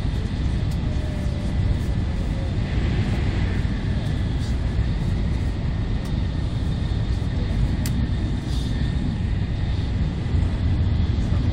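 Cabin noise of an N700A Shinkansen running at speed, heard from inside the passenger car: a steady low rumble with a faint steady high whine and a few faint ticks.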